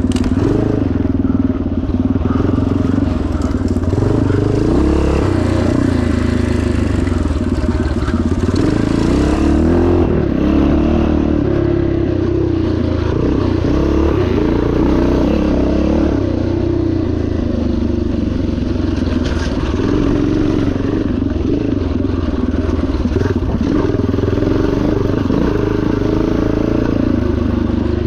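1977 Yamaha TT500's single-cylinder four-stroke engine running under load, its pitch rising and falling again and again as the throttle is worked.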